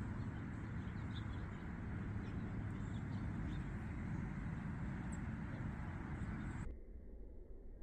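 Faint, scattered bird chirps over a steady rushing noise. The noise cuts off abruptly near the end.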